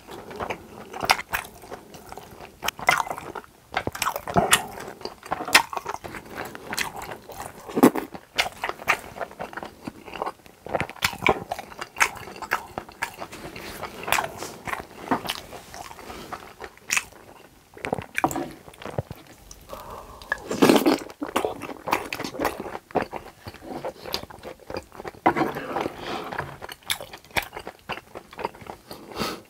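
Close-miked chewing of mouthfuls of pork intestines (gopchang) in sauce, a dense, irregular run of wet, sticky mouth clicks and squishes.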